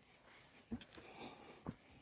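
Faint footsteps on a forest trail: two steps about a second apart over a soft hiss.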